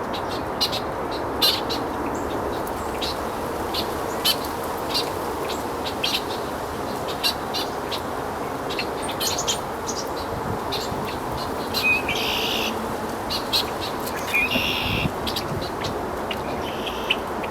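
Birds chirping and calling over a steady background noise: many short, high chirps, then two longer, louder calls about two seconds apart near the end.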